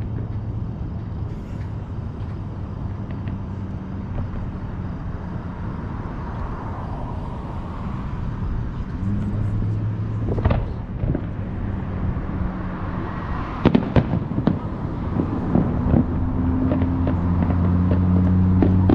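Aerial fireworks going off: a sharp bang about ten seconds in, then a cluster of cracks and a growing run of crackling toward the end, over a steady low hum.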